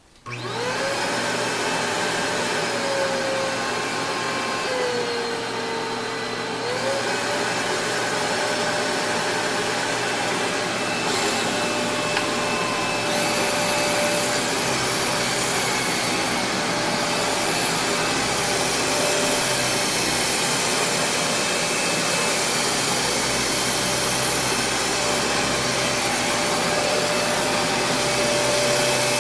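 Kenmore Progressive DirectDrive upright vacuum cleaner switched on, its motor spinning up almost at once to a steady whine and running on. The pitch sags a little a few seconds in and recovers.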